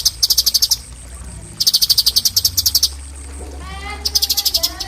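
Cucak cungkok singing its 'tembakan' rapid-fire song: three bursts of fast, very high notes at about ten a second, with a lower wavering call near the end. A steady low hum runs underneath.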